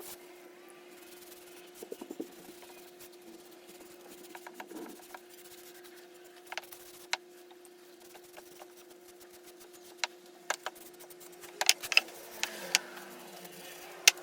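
Handling and rubbing on a wooden piece: scattered light clicks and taps, with a cluster of sharper knocks near the end, over a steady hum.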